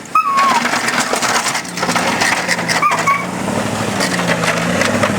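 Chevy Z-71 pickup plowing snow: a continuous crunching, scraping noise of the plow pushing snow, with the truck's engine hum coming in about two seconds in. A dog gives two short whines that drop in pitch, one right at the start and one about three seconds in.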